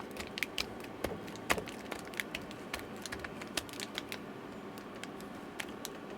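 Light, irregular clicks and taps of hands handling a replacement battery and small parts in an opened laptop case, a few a second.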